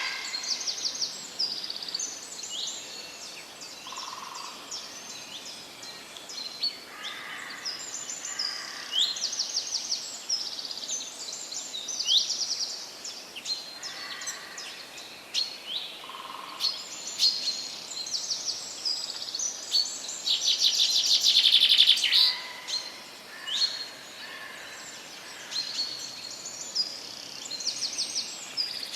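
Several songbirds singing and calling, with many short high chirps and quick rising and falling notes throughout. A louder, rapid trill comes about three-quarters of the way through, with a few soft lower notes from another bird in between.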